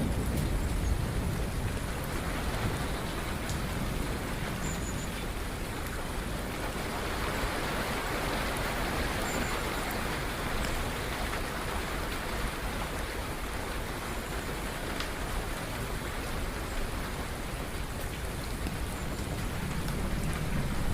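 Steady rain falling, an even hiss of drops, with the tail of a low thunder rumble dying away at the start.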